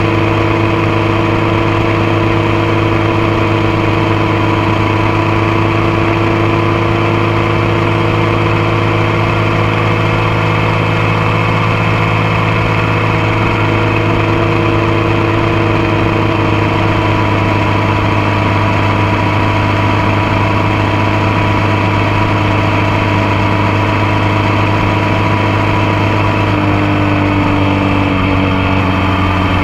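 Motorcycle engine running at a steady cruise, picked up close to the bike at the foot peg, with wind and road noise; the engine note drops slightly near the end as the bike eases off.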